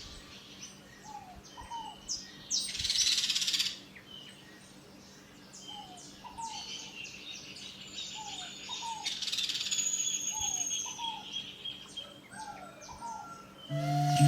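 Several wild birds chirping and whistling, with a repeated short down-slurred call among them and two short bursts of hissing noise. Music comes in near the end.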